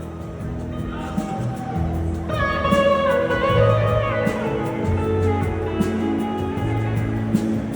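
Live band music: a guitar leads over a steady low accompaniment. A descending run of notes starts a little over two seconds in.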